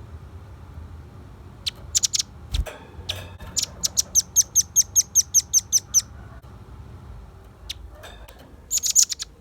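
Velvet-fronted nuthatch calling: a few sharp high chips, then a fast run of about a dozen hard notes at roughly five a second, and another quick burst near the end.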